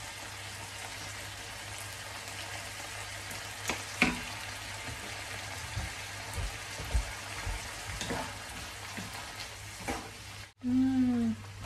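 Beef strips and sliced onions sizzling steadily in a non-stick frying pan, with sweet soy sauce just added. A wooden spatula knocks and scrapes against the pan a few times as the food is stirred.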